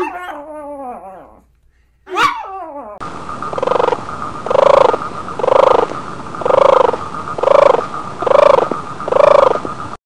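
A Pomeranian dog yips and whines in short calls that fall in pitch, with one quick rising-and-falling yelp about two seconds in. After that, a tortoise gives a rhythmic series of seven low, pulsing calls about a second apart over a steady hiss, louder than the yips.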